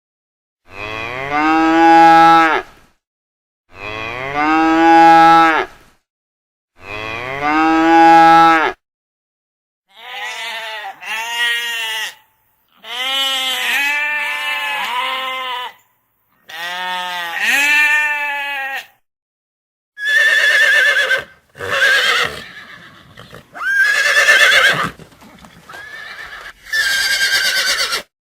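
Animal calls: a long call repeated three times with short silent gaps, then about five shorter calls that rise and fall in pitch, then several higher-pitched calls near the end.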